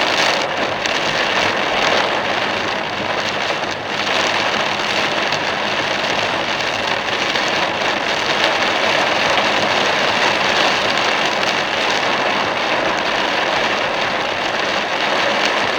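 Torrential rain pouring on a moving car, a dense steady hiss with brief louder gusts about half a second and four seconds in.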